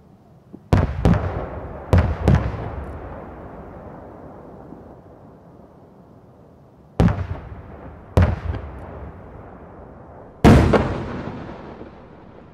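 Aerial firework shells bursting: a series of sharp bangs in three groups, each fading into a long rolling echo. The last burst, near the end, is the loudest.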